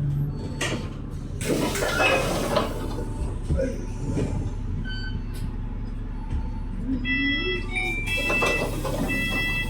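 Inside a running bus: a steady engine drone, a burst of hissing about a second and a half in, and repeated short electronic beeps in the last few seconds.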